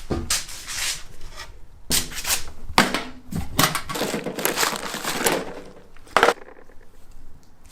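Crinkling and rustling of shopping packaging being handled and opened, in irregular bursts, with a sharp knock about six seconds in.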